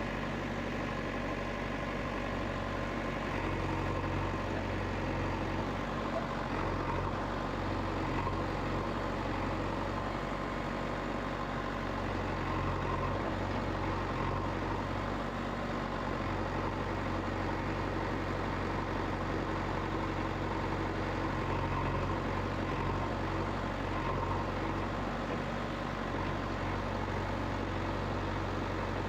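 A vehicle engine running steadily at idle, an even low hum that holds without revving up or down.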